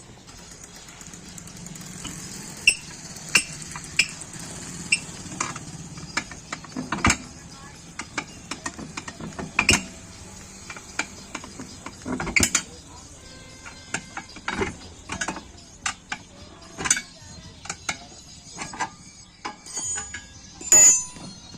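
Irregular metal clanks, taps and knocks of tools working on a tractor tyre and its steel rim. Some strikes ring briefly.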